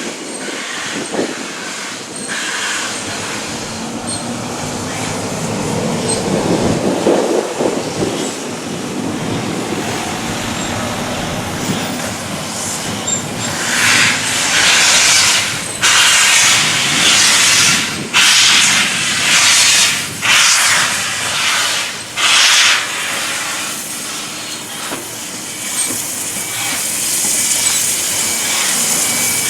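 Steam locomotive at work: a steady rumble, then a run of about five loud hissing bursts of steam, each a second or two long, around the middle.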